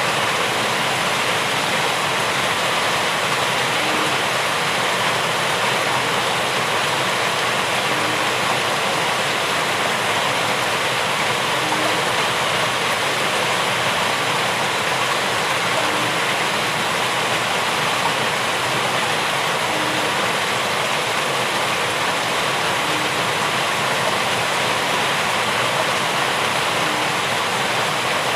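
Steady heavy rain: a dense, even hiss that does not change, with a faint short low blip recurring about every four seconds.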